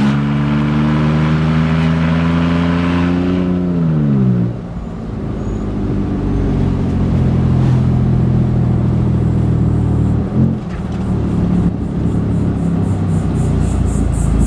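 3.6-litre Pentastar V6 of a Jeep Wrangler running with no exhaust past the catalytic converters: very loud. It holds steady high revs for about four seconds, then the revs fall away. It carries on with a lower, rougher drone, dipping briefly near the end.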